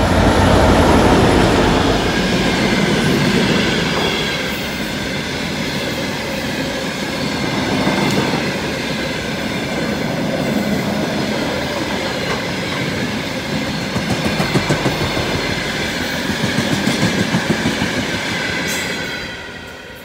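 2M62U two-section diesel locomotive, with its two-stroke diesel engines, passing close, loudest about a second in, followed by a long train of freight wagons rolling past with a clickety-clack rhythm of wheels over rail joints. The sound dies away near the end as the last wagon passes.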